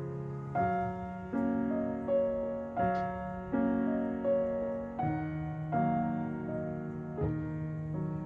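Background piano music: slow chords, a new one struck roughly every three-quarters of a second and left to ring.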